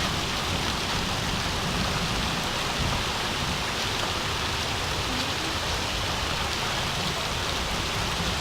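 Steady heavy rain falling and splashing on surfaces.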